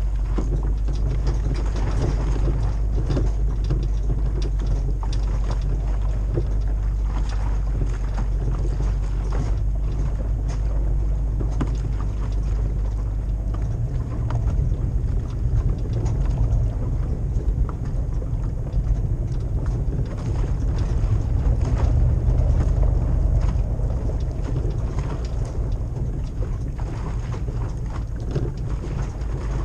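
Toyota Land Cruiser 100 series' 2UZ-FE 4.7-litre V8 with a full exhaust, driving along at low revs with a steady deep rumble, and frequent knocks and rattles over the rough ground. The note grows a little stronger past the middle.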